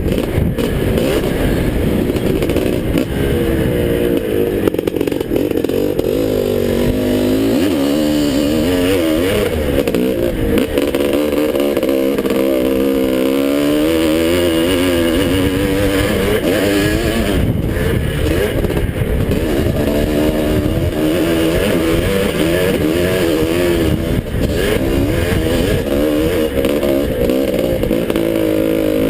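1981 Husqvarna 430 two-stroke motocross bike running hard, its engine pitch rising and falling over and over as the rider works the throttle through the track.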